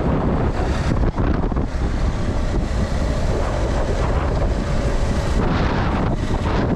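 Loud wind buffeting on a GoPro's microphone while riding, a dense rumbling noise that surges and dips.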